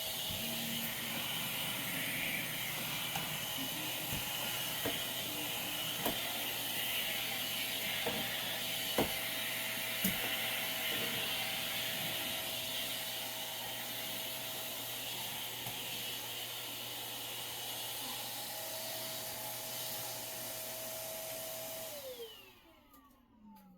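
Shark vacuum cleaner running steadily with a few knocks along the way, then switched off near the end, its motor whine falling away as it spins down.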